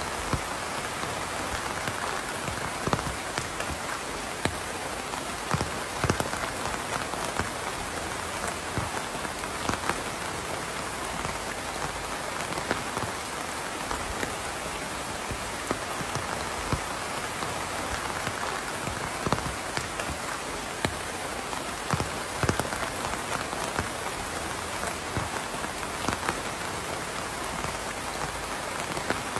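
Steady rain falling on a hard surface, a constant hiss with scattered louder individual drops ticking at irregular moments.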